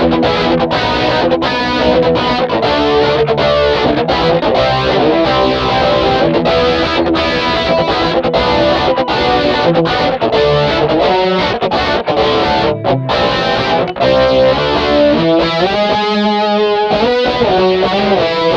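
Electric guitar played through an MXR Rockman X100 on its Edge crunch setting with the chorus switched on: a lean, mid-heavy, lightly driven tone. The playing is a run of choppy chord stabs and riffs, ending in held notes that waver with the chorus.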